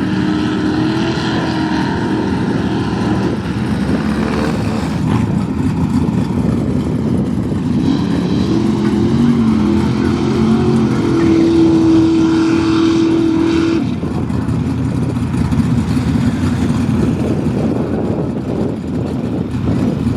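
Mud-bog truck engine running hard at high revs, its pitch dipping about halfway through, then climbing and holding for a few seconds before easing off.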